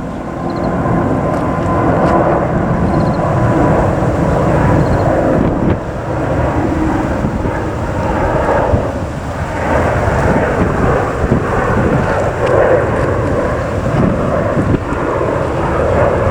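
Loud, steady rumble of a jet airliner's engines passing close by on the runway, with wind buffeting the microphone.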